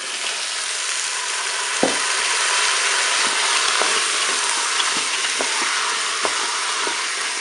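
Soaked white beans sizzling as they hit hot oil and browning onions in a Cookeo multicooker's pot, a steady loud hiss from the moment they are tipped in. A wooden spatula stirring them knocks against the pot a few times.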